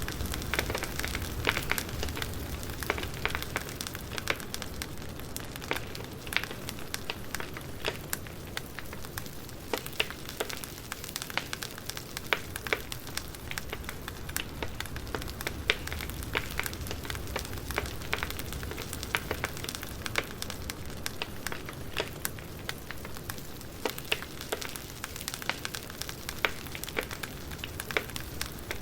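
Wood fire crackling: a steady low hiss with frequent irregular sharp pops and snaps from burning logs.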